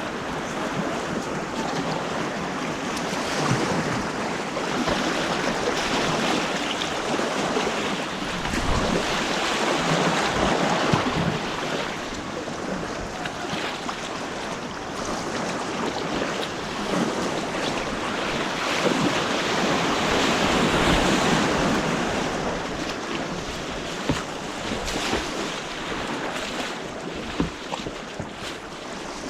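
Rushing white water on an artificial slalom course, a steady churning wash that rises and falls, with wind buffeting the action-camera microphone. Two brief sharp knocks or splashes stand out near the end.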